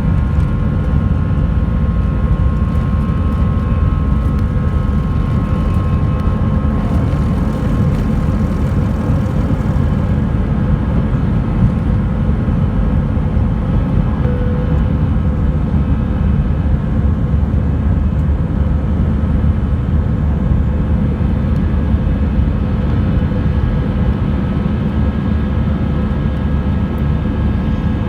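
Jet airliner's engines heard from inside the passenger cabin during takeoff: a steady, loud low rumble with a few faint whining tones above it.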